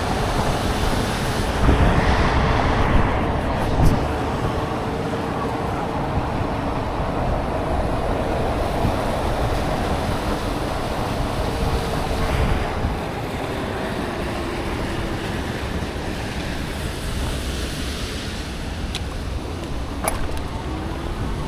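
Traffic passing on a rain-wet road, a steady rushing hiss of tyres on wet asphalt, with wind noise on the microphone.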